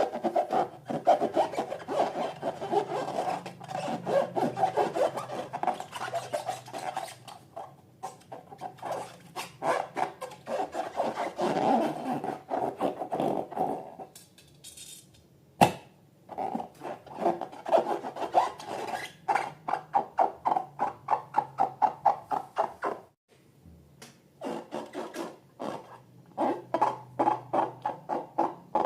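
Rapid, repeated rubbing and squeaking strokes from hands working rubber balloons and slime, with short pauses and one sharp snap about halfway through.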